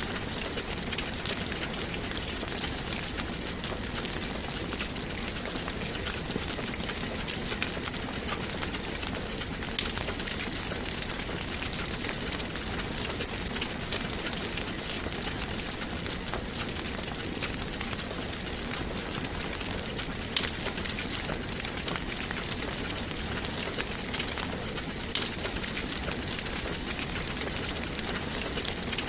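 Wood fire crackling steadily in a fireplace: a dense run of small sharp pops over a constant hiss, with one louder pop about twenty seconds in.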